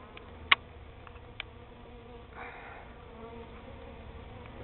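Honey bee swarm buzzing: a steady hum of many bees flying around, with a few sharp clicks, the loudest about half a second in.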